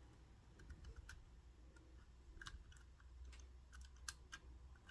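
Faint, scattered small clicks and taps of a screw and small metal parts being handled, against near silence.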